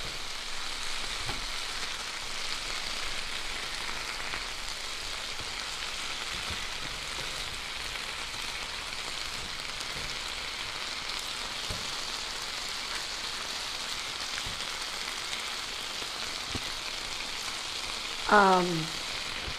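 Meat and vegetables sizzling steadily in an electric skillet, a stir fry frying, with a few light clicks of a spoon stirring.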